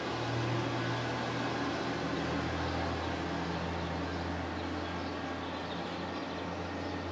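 A steady low mechanical hum under a constant hiss of background noise.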